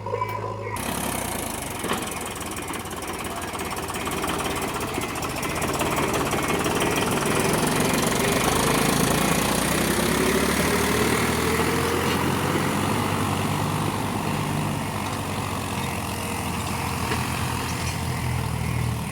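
Diesel engine of heavy machinery running with a knocking rattle, its pitch rising slowly for several seconds midway as it revs up.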